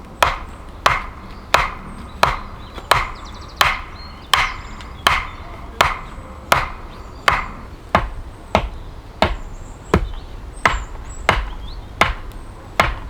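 Axe chopping into wood with steady, evenly paced blows, about three strikes every two seconds.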